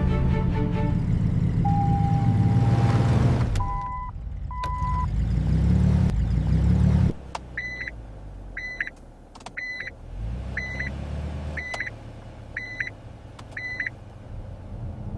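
A vehicle engine runs loud and revs up, with two short beeps partway through. It cuts off suddenly, followed by seven short electronic beeps about one a second.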